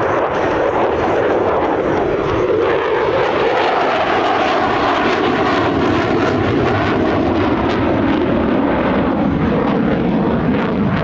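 F-16 fighter jet engine noise, a loud, steady rush with a faint whine slowly sliding in pitch as the jet moves through the sky.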